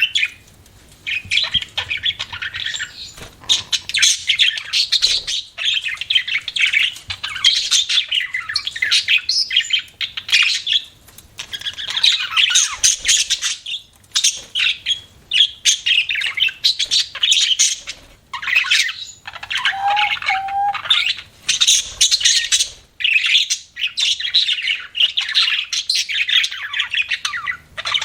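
Budgerigars chattering and warbling: fast runs of chirps and scratchy squawks in bursts of a few seconds, with brief pauses between them.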